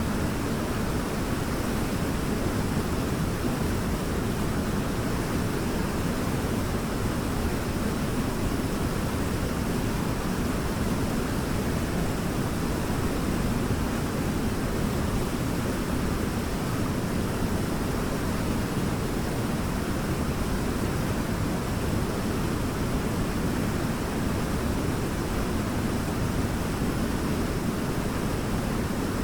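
Waterfall: a steady, unbroken rush of falling water, deepest and strongest at the low end.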